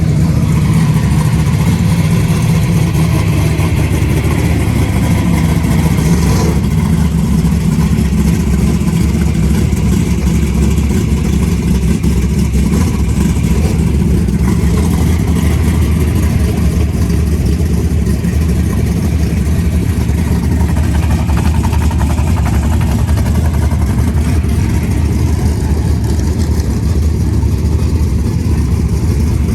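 A loud car engine running steadily with a low, even rumble.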